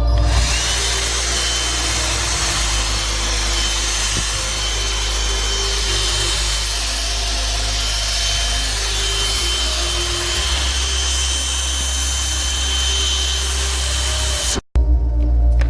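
Grundig 21.6 V cyclonic cordless vacuum cleaner running: a steady rush of air with a high, even motor whine, cutting off abruptly near the end.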